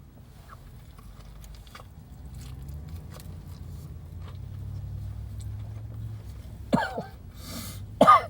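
A man chewing a bite of a hot chicken sandwich, faint crunching clicks over a low steady hum, then near the end short, loud, strained vocal outbursts with falling pitch and a sharp breath between them.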